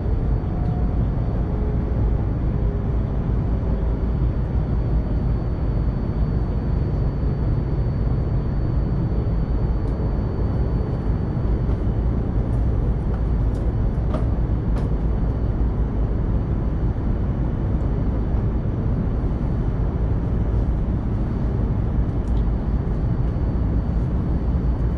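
Tohoku Shinkansen train running, heard inside the passenger cabin: a steady low rumble and rush of running noise, with a faint high whine and a few light ticks about halfway through.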